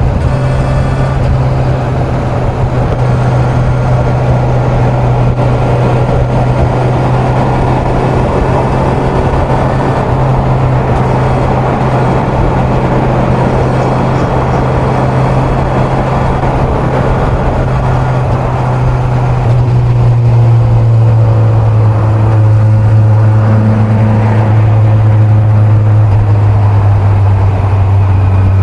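Kawasaki Z900 inline-four engine running steadily at highway speed under wind and road noise. About two-thirds of the way through, the engine note drops to a lower pitch and gets louder.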